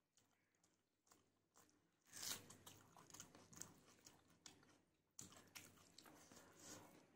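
Faint close-up chewing of a mouthful of rice and curry, with small wet mouth clicks and crackle. It comes in two spells, starting about two seconds in and again about five seconds in.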